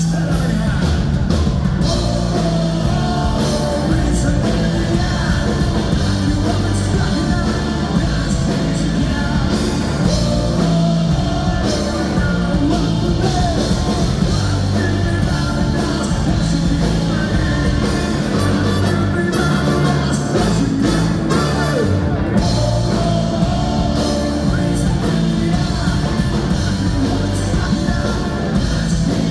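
Ska-punk band playing loud and live: drums, bass, electric guitar and horns, with a voice singing over them.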